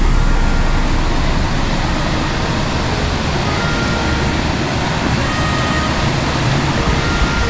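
Steady, loud rushing of a waterfall's falling water, an even noise with no rhythm.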